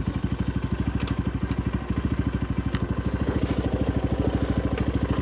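Small gas four-wheeler engine idling with a rapid, even pulse, and a few light clicks over it.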